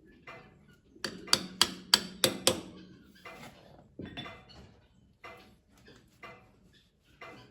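Hammer blows: five quick sharp strikes, about three a second, followed by lighter scattered knocks and clicks of tools being handled.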